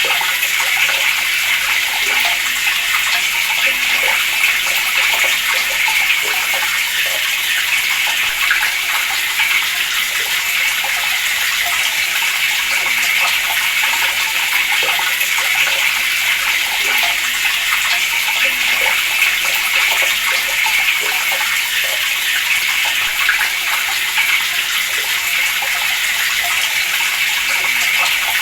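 Water running steadily from a tap, a continuous hiss-like splashing stream with no change in strength.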